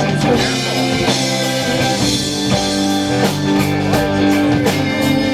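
Live rock band playing an instrumental break between sung lines of the song, with guitar over a drum kit and no vocals.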